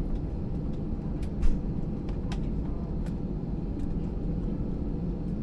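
Steady low rumble of an Airbus A320's engines and airframe heard inside the passenger cabin, with a few light clicks and one brief louder knock about a second and a half in.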